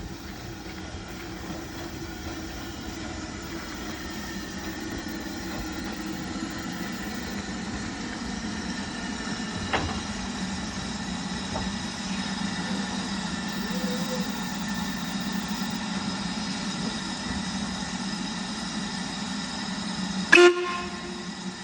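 Steam train running with a steady rumble and hiss, and one short, loud whistle toot near the end.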